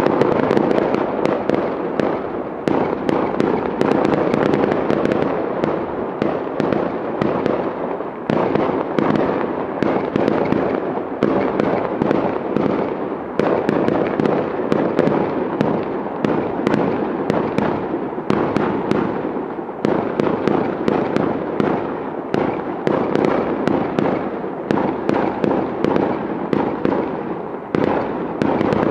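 Fireworks display going off: a dense, unbroken barrage of rapid bangs and crackling, many reports a second.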